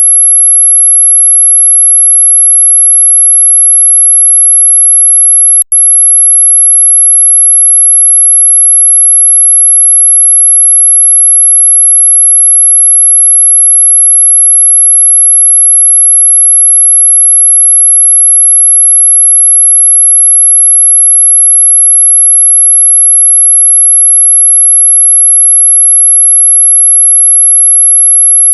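A continuous, very high-pitched pure electronic tone played as a mosquito-repelling sound. It holds one steady pitch and cuts out for an instant about six seconds in.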